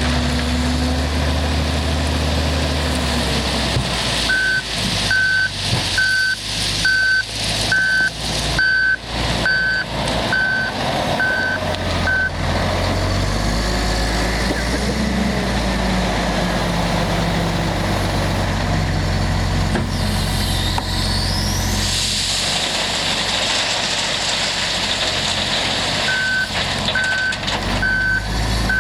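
Komatsu WA480-6 wheel loader's diesel engine working under load, with a reversing alarm beeping at an even pace, about one beep a second, for several seconds and again near the end. A rising whine about two-thirds of the way through.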